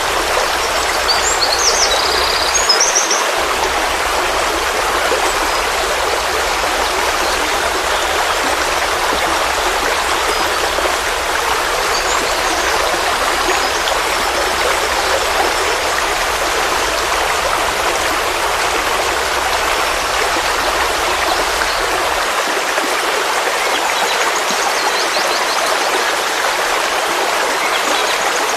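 Forest stream flowing steadily over rocks, a constant rushing babble, with a few faint high chirps about a second in and again near the end.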